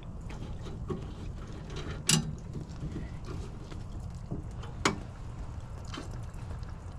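Hands handling tools and parts on a furnace: a few scattered clicks and knocks, two sharper ones about two and five seconds in, over a steady low hum.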